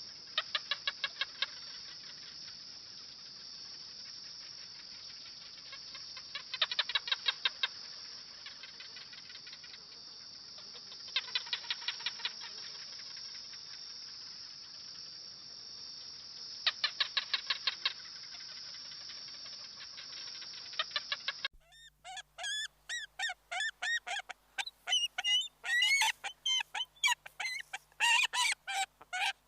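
A bird calling in rapid series of short notes, each series about a second long and repeated about every five seconds, over a steady high hiss. About three quarters of the way through the sound cuts to a different recording of busier, varied bird calls.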